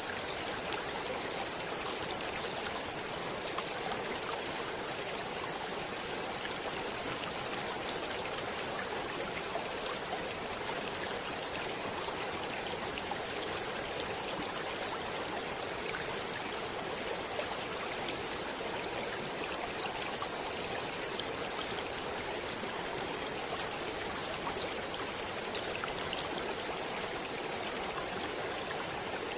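Stream water flowing steadily: an even rush of running water with many small splashes and trickles through it.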